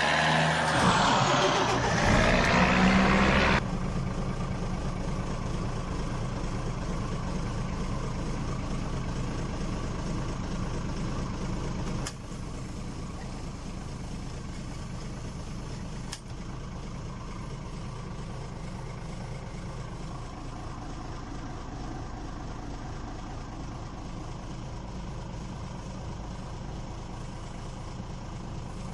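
A vehicle engine running steadily at a low, even hum, after a louder, shifting stretch in the first few seconds; the level drops abruptly twice.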